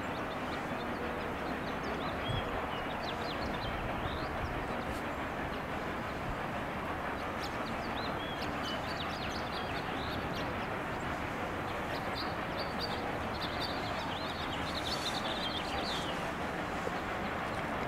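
Small birds chirping again and again, the calls busiest in the later part, over a steady rushing background noise.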